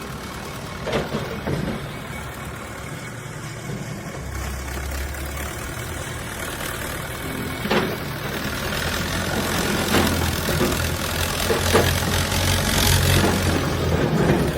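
Diesel engine of heavy construction machinery running steadily and growing louder in the second half, with several sharp knocks over it.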